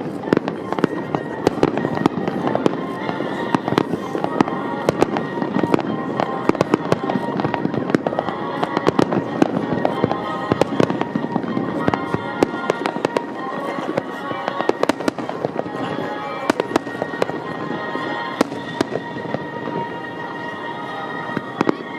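Fireworks going off in dense, continuous succession: many sharp bangs and crackles overlapping, with music playing underneath.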